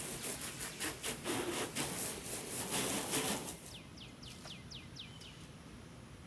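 Rapid rubbing or scrubbing strokes for about three and a half seconds, then quieter. A bird calls a quick series of about seven falling chirps.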